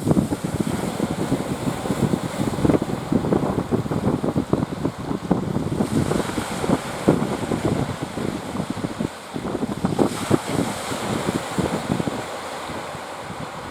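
Wind buffeting the microphone in uneven gusts over the wash of sea surf; the gusts ease off near the end.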